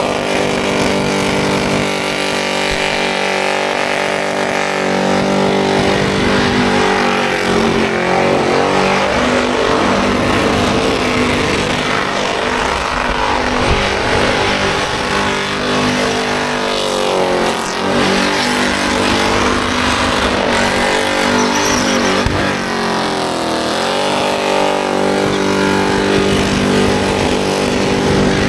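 Car engine held at high revs during a burnout, its pitch dropping and climbing back up several times.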